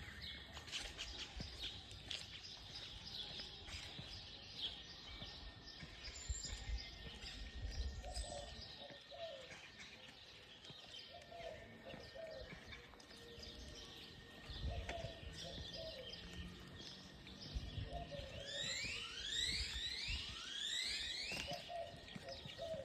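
Many birds chirping and calling over one another, fairly faint. A quick run of sweeping, swooping notes comes about nineteen seconds in, and short low calls sound every few seconds.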